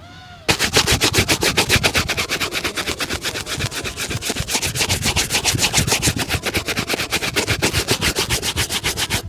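Fast, steady back-and-forth brushing of a leather shoe with a shoe-shine brush, starting about half a second in.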